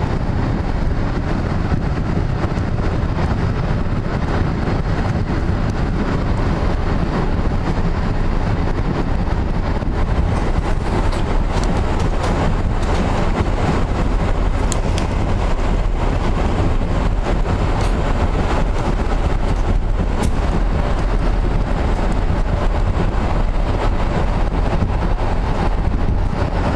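Passenger train running, heard from inside the carriage: a steady rumble of wheels on the rails, with scattered sharp clicks in the middle stretch.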